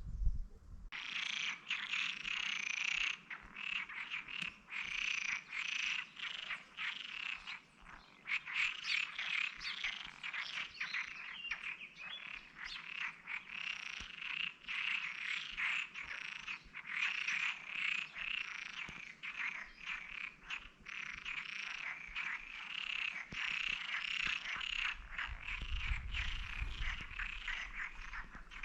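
A dense chorus of frogs calling, many short calls overlapping one another, starting abruptly about a second in.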